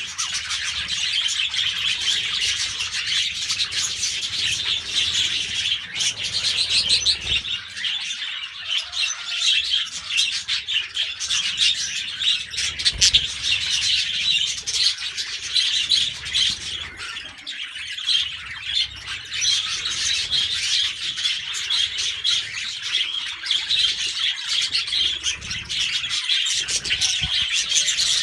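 Budgerigars chattering and warbling continuously, a dense mix of quick chirps from many birds at once.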